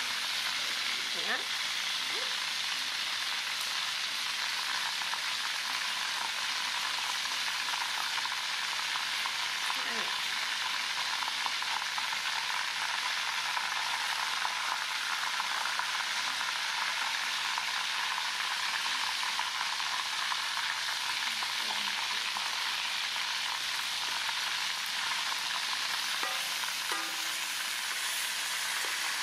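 Steady sizzling hiss of food frying in hot oil.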